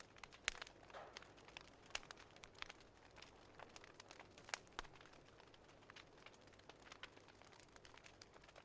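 Faint crackling of a wood fire in a fireplace: irregular pops and snaps over a low hiss, the sharpest snaps about half a second in and again a little past the middle.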